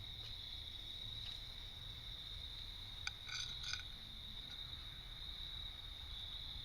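Crickets chirping in a steady, continuous high trill, with a few light clicks about three seconds in.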